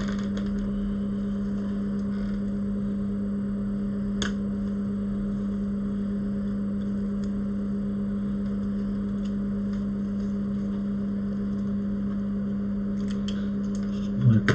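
A steady low electrical hum from bench equipment, with a few faint small clicks of tools on the bench, once about four seconds in and several near the end.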